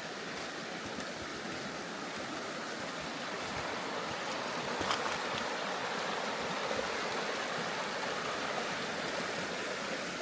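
Steady rush of flowing water from a stream running.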